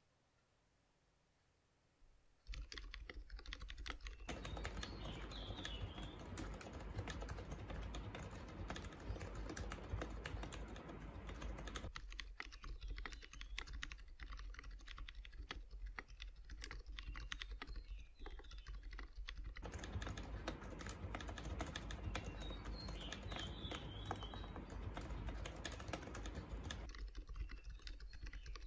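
Typing on a GK64 mechanical keyboard fitted with Gateron Silent Brown switches (silent tactile switches): a fast, continuous run of keystrokes starting about two and a half seconds in.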